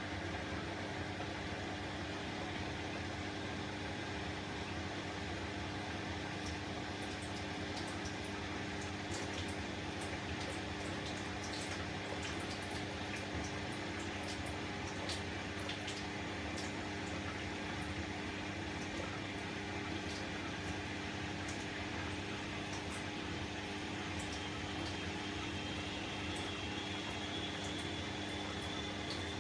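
Bosch WAE24162 washing machine partway through its rinse cycle: a steady hum with water running and splashing inside the machine. A faint high whine begins to rise near the end.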